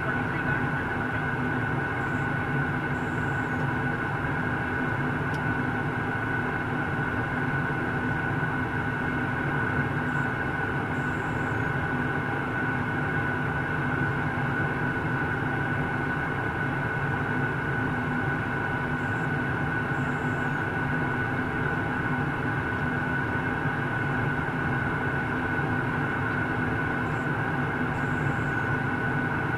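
Steady cabin noise of a jet airliner in flight: an even rush of air with a steady high engine whine and a low hum underneath.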